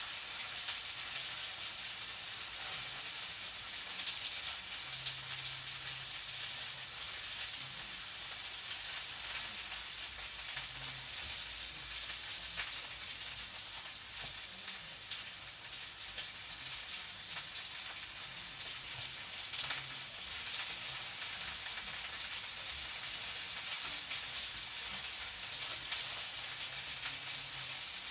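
Food frying in a pan: a steady sizzle with fine crackles throughout.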